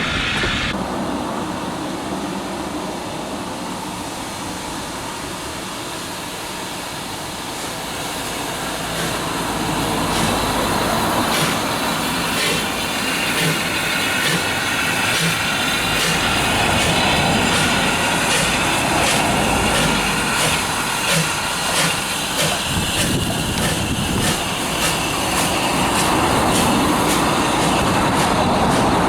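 A train running past on the line, getting louder from about eight seconds in, with a regular clicking of the wheels over the rail joints through the second half.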